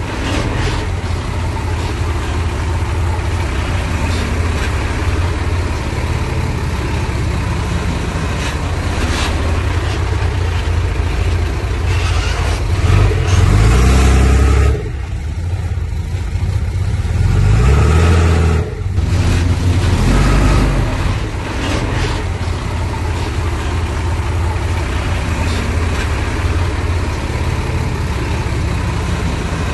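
Heavy diesel earthmoving machinery running under load, a deep engine note that rises and falls as the throttle changes, with a brief surge about halfway through.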